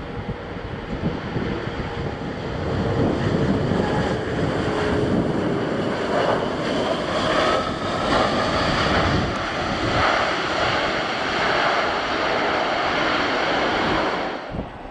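Jet engine noise of a landing Mitsubishi CRJ-1000 regional jet, with gusty wind on the microphone. It swells about three seconds in, holds steady and loud, then cuts off abruptly near the end.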